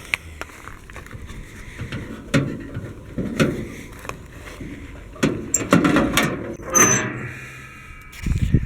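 Metal parts of an old car being handled: scattered clicks and knocks, a quick run of them in the later half, and a short metallic squeak about seven seconds in.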